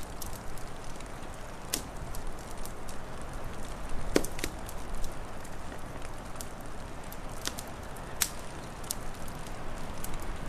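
Wood fire crackling: scattered sharp pops and snaps, the loudest about four seconds in, over a steady low rushing noise.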